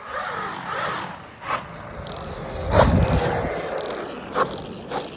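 Large RC monster truck with a 12S brushless belt drive, driving over rough ground: tyres scraping, motor whining, and several sharp knocks as the chassis and suspension hit bumps. The loudest knock comes about three seconds in.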